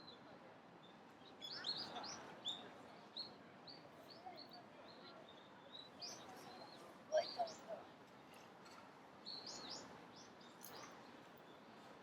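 Small birds chirping: short, sharp chirps in scattered clusters, the loudest call about seven seconds in, over faint steady background noise.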